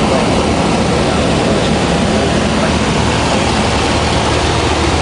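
Cessna 172's four-cylinder piston engine and propeller running steadily, mixed with loud rushing air noise, on the approach to landing.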